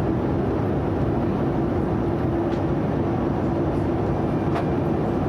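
Steady in-flight cabin noise of a Boeing 787-9 airliner: an even rushing roar with a steady low hum underneath, and a couple of faint ticks.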